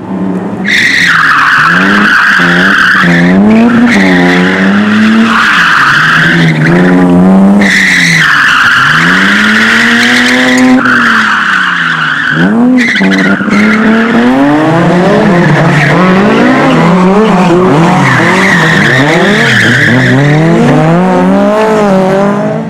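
Race car driven hard through a slalom course: the engine revs up and down repeatedly as the driver works the throttle, with several long stretches of tyres squealing as the car slides through the turns.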